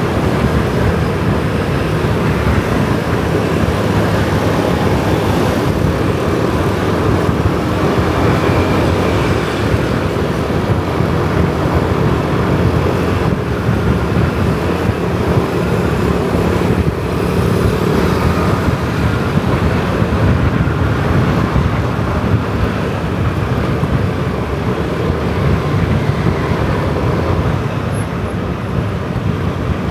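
Kawasaki ZX-4R inline-four sport bike engine running steadily while riding in city traffic, with road and traffic noise around it.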